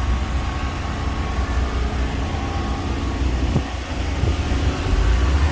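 Steady low engine rumble with general street noise.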